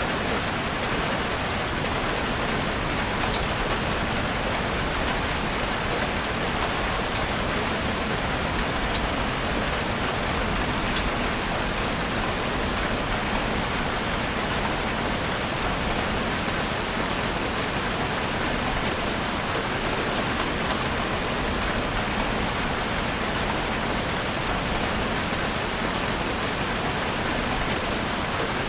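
Heavy rain falling steadily on a roof, a dense even hiss with fine drop ticks and no change in strength.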